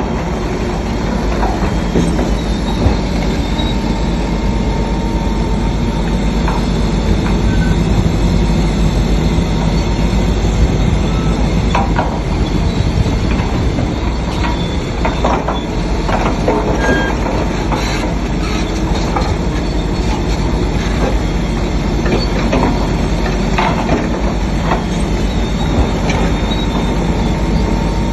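Shantui crawler bulldozer working: the diesel engine runs steadily under load while the steel tracks clank and squeal, with scattered metallic knocks.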